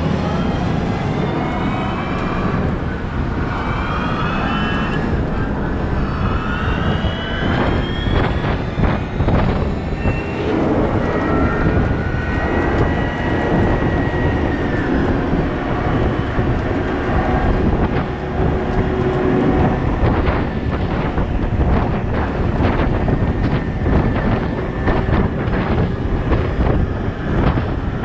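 Heavy diesel machinery working: a deep, steady engine rumble with whines that rise and fall in the first half, and scattered knocks and rattles.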